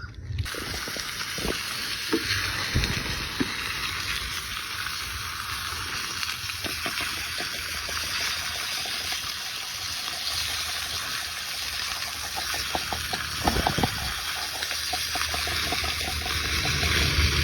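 Food frying in a pan: a steady sizzling hiss with scattered soft pops.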